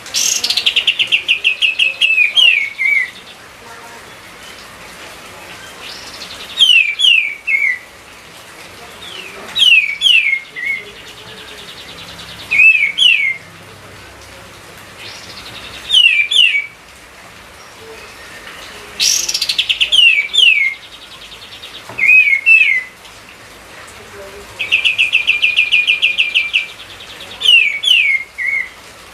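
A kapas tembak songbird singing loudly over and over: short phrases of two or three quick downslurred whistles every few seconds, with a long, fast rattling trill at the start and another near the end.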